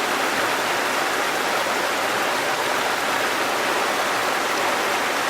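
Waterfall: a steady, even rush of falling and running water with no breaks.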